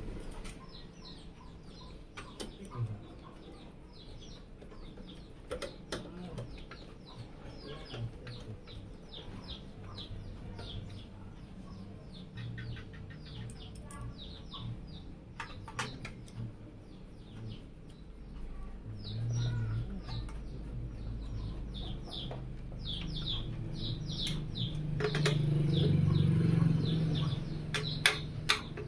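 Birds chirping over and over in quick short notes, with scattered sharp clicks and a low hum that swells near the end.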